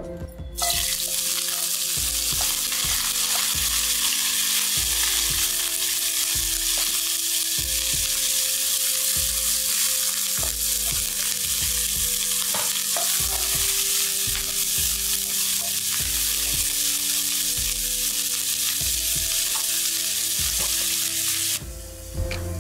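Chopped onions and green chillies sizzling in hot oil in a nonstick frying pan. The sizzle starts suddenly just under a second in, as the onions hit the oil, and stops about a second before the end.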